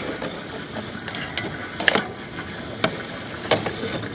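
Sewer inspection camera's push cable being fed by hand into a drain line: a handful of irregular clicks and knocks over a steady hiss.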